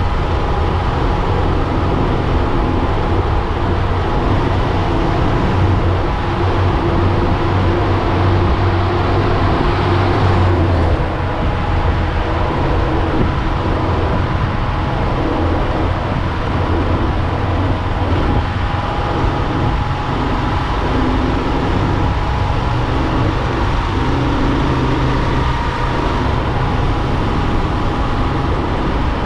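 Steady road-vehicle driving noise: engine hum and rolling noise without a break.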